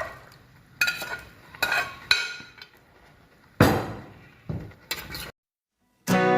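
A metal spoon knocking and clinking against a cooking pan, several separate strikes each with a short ring, as fried chicken pieces are added to the hot sauce. The sound cuts out about five seconds in, and acoustic guitar music starts near the end.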